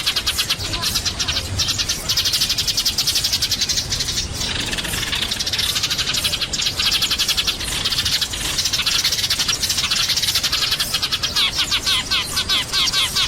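A flock of sparrows chirping: a dense, continuous chatter of quick, high chirps, easing off for a moment about four seconds in.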